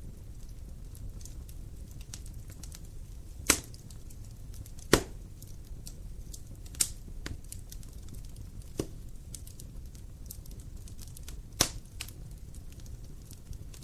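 Wood fire burning, with a steady low rumble and frequent small crackles, and about five sharp, louder pops spread through.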